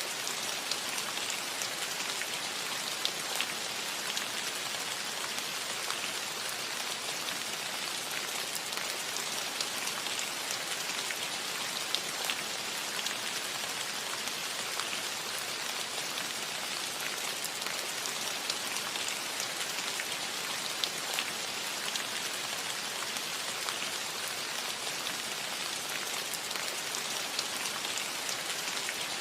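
Steady rain falling on a metal roof: an even hiss with many small scattered drop ticks.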